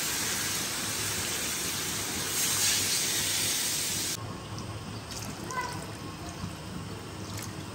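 Hot oil and spices in a kadai sizzling as boiled dal is scraped in from a steel bowl. About four seconds in the sizzle cuts off suddenly, and water is then poured into the pan with a few light metal clinks.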